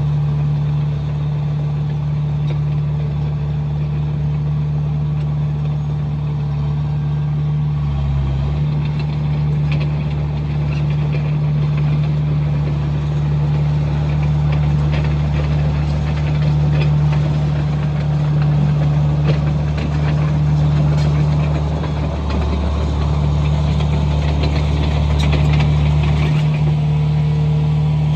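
Komatsu bulldozer's diesel engine running with a steady low drone, over irregular rattling and clatter that grows busier in the middle and later part.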